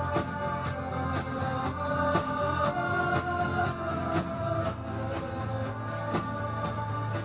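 Live band playing, with guitars, a steady drum beat and perhaps a vocal line over it.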